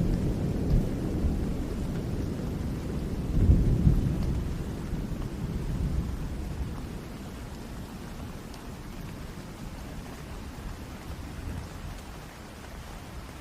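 Steady rain with a low rolling rumble of thunder that swells about three and a half seconds in and then dies away, leaving the rain.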